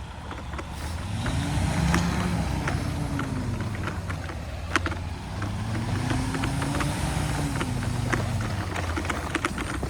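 InMotion E20 electric unicycle on a dirt trail: a steady low rumble of tyre and wind, with the hub motor's whine rising and falling in pitch twice, and scattered sharp ticks.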